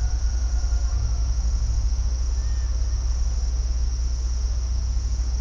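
Steady high-pitched chorus of crickets or similar insects over a low continuous rumble, with a few faint chirps, the clearest about two and a half seconds in.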